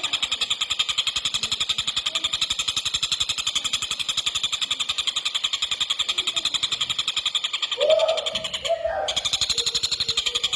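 Tengkek buto (a kingfisher) calling in a fast, tight run of rapidly repeated notes, the 'speed rapat' chatter kept as master song for competition birds. A brief lower call comes near the end, where the chatter breaks off for a moment before going on.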